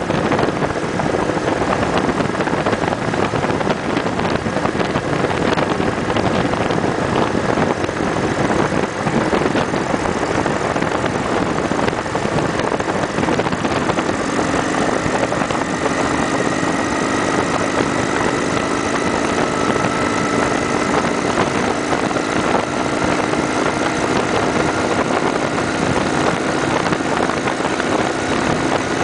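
Wind and road noise rushing over the microphone while riding a Kawasaki Vulcan 900 Custom SE, with its V-twin engine running underneath. From about halfway in, a faint engine tone rises slowly as the bike gathers speed.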